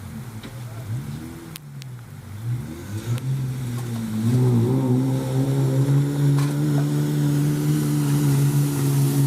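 A racing vehicle's engine running at a steady, slowly rising pitch. It grows louder about four seconds in.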